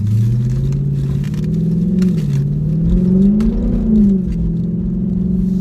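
Vehicle engine accelerating as it pulls away. Its pitch rises, dips about two seconds in, climbs to a peak near four seconds, then eases back.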